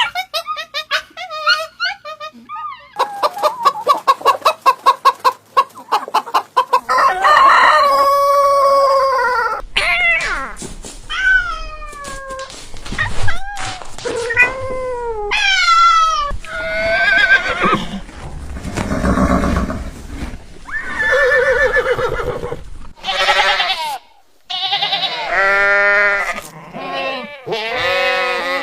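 Animal calls, one kind after another: first a fast train of short pulses, then several pitched calls that fall in pitch, then more calls of different kinds.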